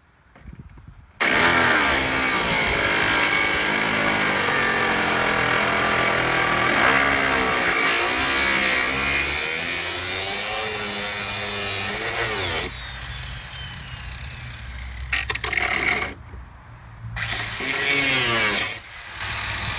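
Cutoff wheel cutting through a steel gas-tank strap: one long cut of about eleven seconds, its motor pitch wavering as it bogs under load, then two shorter cuts near the end.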